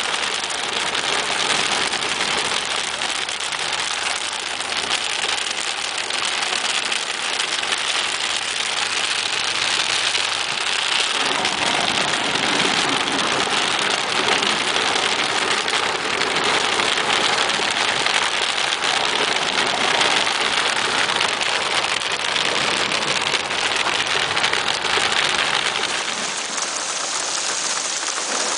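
Heavy rain beating on a car's roof and windscreen, heard from inside the moving car, with the engine running low underneath for the first ten seconds or so. Near the end it changes to heavy rain falling outdoors.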